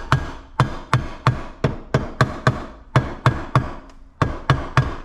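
Repeated hammer taps, about three a second in a steady run, driving a Kawasaki KFX400 engine's crankcase half down onto the other half until the cases seat together.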